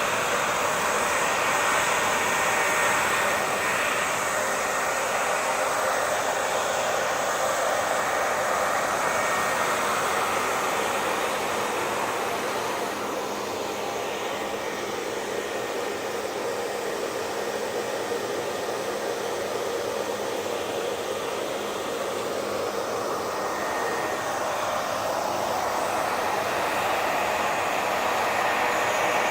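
Hair dryer running steadily: a continuous rushing hiss of blown air with a faint steady whine. It softens slightly midway and comes back up near the end.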